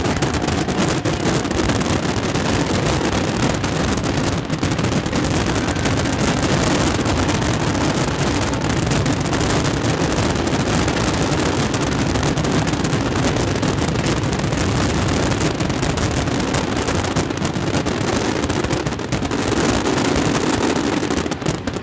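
Fireworks finale barrage: so many shells bursting at once that the bangs run together into one continuous loud noise, thinning out right at the end.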